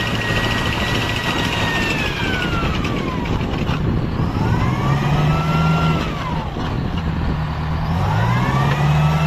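Vehicle engine sound effect: a low engine note that rises in pitch twice under a whining tone that glides down, arcs up and down, and rises again, over a steady rumble.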